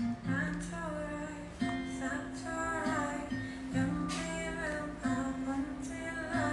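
Music: strummed acoustic guitar chords over steady low notes, with a female voice singing softly.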